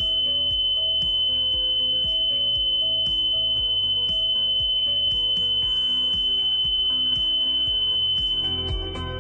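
A steady, high-pitched electronic tone held at one pitch for about nine seconds, stopping shortly before the end, over background music.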